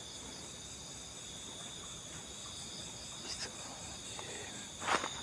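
Crickets and other insects of a night chorus trilling steadily at several high pitches at once. A short rustle near the end.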